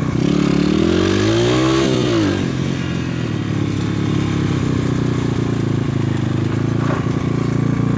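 PitPro 140cc pit bike's single-cylinder four-stroke engine under way on a trail ride. The revs climb and then drop back in the first couple of seconds, then it runs at a fairly steady pace.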